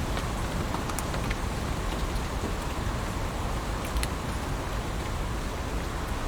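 Heavy rain falling on leaves: a steady rushing hiss, with scattered sharp ticks of single drops striking close by.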